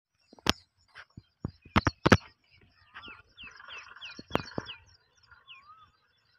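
Small birds chirping: a run of short, quick, falling chirps and a couple of whistles in the middle. Several sharp knocks stand out, the loudest sounds, mostly in the first two seconds and once more in the middle.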